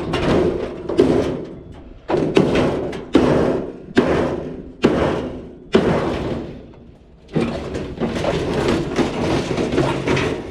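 Clothes dryer's sheet-metal cabinet being knocked apart: a run of about seven loud bangs and thuds, roughly one a second, each trailing off in a rattling metallic ring, with a short lull near the middle.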